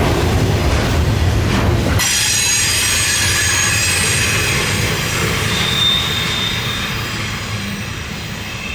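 Freight train rolling by: a heavy low rumble of the cars that changes abruptly about two seconds in to a quieter passage of steady, high-pitched wheel squeal, several tones at once, slowly fading.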